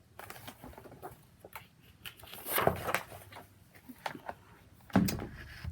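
Handling of a picture book as a page is turned: scattered light clicks, a paper rustle about two and a half seconds in, and a soft thump near the end.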